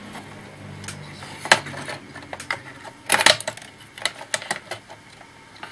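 Clicks and clatter of an old Panasonic laptop's plastic parts being handled as it is taken apart: a single sharp click about a second and a half in, a cluster of knocks around three seconds, then scattered lighter ticks.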